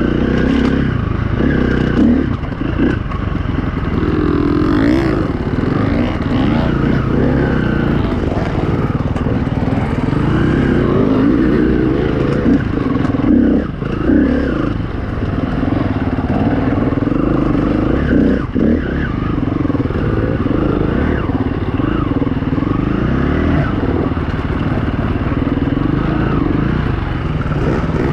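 Single-cylinder four-stroke engine of a KTM 350 EXC-F dirt bike, revving up and down over and over as it is ridden, with a few sharp knocks along the way.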